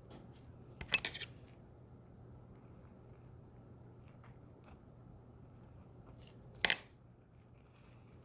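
Dissecting scissors snipping through the preserved cat's gracilis muscle and its connective tissue: a quick double snip about a second in, and a single snip near the end.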